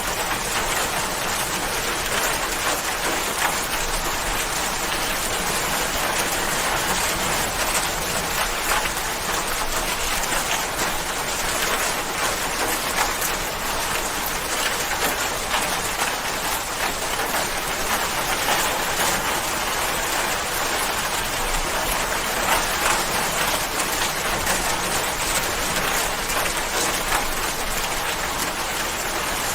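Steady rain, a dense even patter of many drops on hard surfaces.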